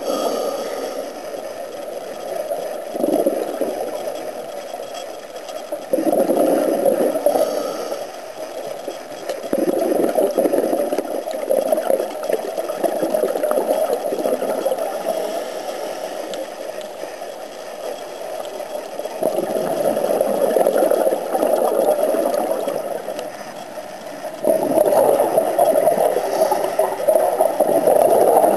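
Scuba diver's exhaled bubbles from the regulator, heard underwater: a bubbling rush that swells and fades again every few seconds with each breath.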